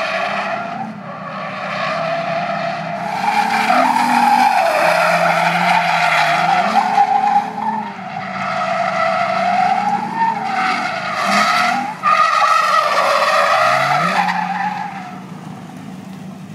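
Nissan 350Z (Z33) drifting: the rear tyres squeal steadily, wavering in pitch, over the V6 engine revving up and down in second gear. The squeal and engine fade away near the end.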